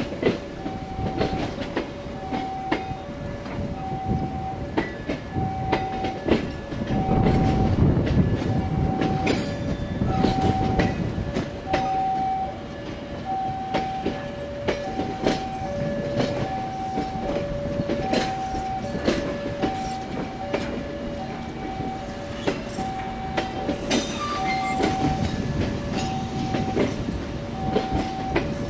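Passenger coaches rolling slowly past, their wheels rumbling and clicking over the rail joints, with a louder rumble about seven to nine seconds in. Throughout, an electronic warning alarm beeps in two alternating tones, high then low, about one of each per second.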